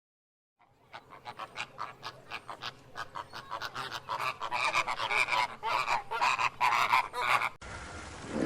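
A flock of birds giving quick, overlapping short calls, several a second, growing louder. About a second before the end it is cut off abruptly by a different, lower sound.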